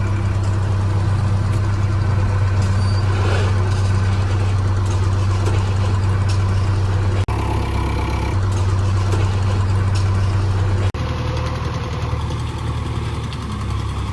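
Heavy diesel engine running steadily with a deep hum, changing abruptly in pitch and level about seven seconds in and again about eleven seconds in.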